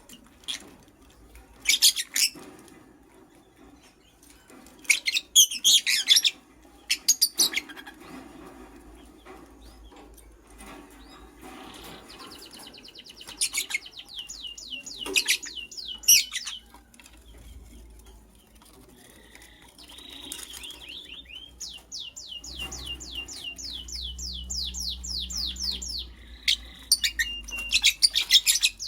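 Lovebird chirping: short, shrill calls in scattered clusters, and several rapid trills of quickly repeated high notes, the longest lasting about four seconds near the end.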